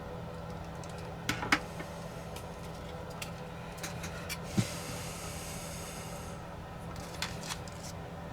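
Scattered light clicks and taps from the small plastic parts of a DJI Mini 4 Pro drone being handled on a repair bench, with a short rustling hiss about five seconds in, over a steady low hum.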